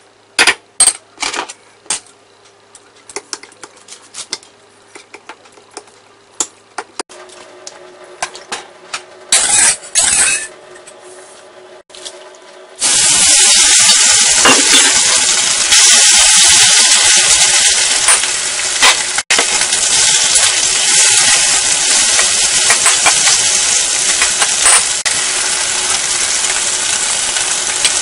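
A few sharp clinks of a metal spoon on a porcelain plate, then, about 13 seconds in, a sudden loud, steady sizzle as sliced chicken is stir-fried in hot oil in a wok.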